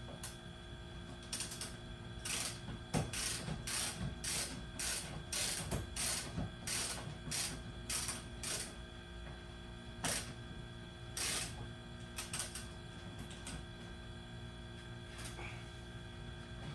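A mechanism worked by hand in a run of short rasping strokes, about two a second, then two more strokes and a few light clicks, over a steady background hum.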